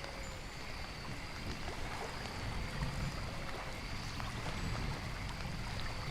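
Rain and nature background ambience: a steady wash of rain and running water with a low rumble and scattered small droplet ticks. Faint high steady tones come and go over it.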